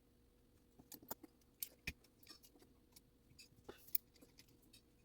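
Faint, irregular small clicks and clinks of metal clock-movement parts and tools being handled, about seven of them, spaced unevenly.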